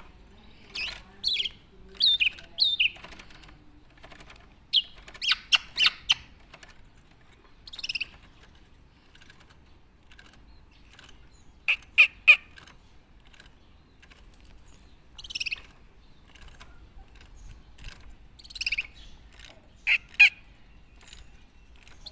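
Black-naped oriole calling: short sharp notes in brief clusters of two to four every few seconds, with a few longer, falling calls.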